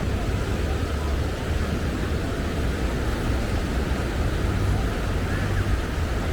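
Steady low rumble of wind on a small camera's microphone over the wash of beach surf, with faint distant voices.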